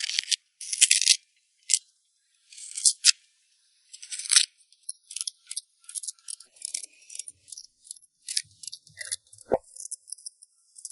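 Mustard tubers (zhacai stems) being peeled: a series of short, irregular scraping strokes as the blade strips the tough skin, a few spaced strokes at first and quicker ones after about four seconds.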